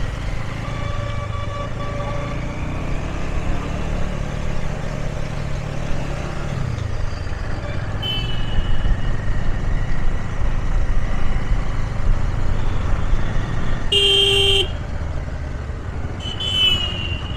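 Motorbike riding in city traffic: a steady engine and road rumble whose pitch drops about six and a half seconds in. Vehicle horns honk over it, briefly about eight seconds in, then a loud half-second blast around fourteen seconds in and another near the end.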